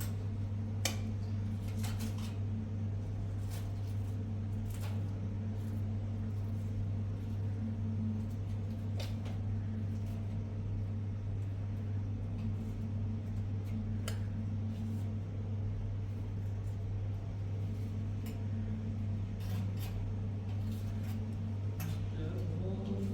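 A steady low mechanical hum runs throughout, with scattered light clicks and taps.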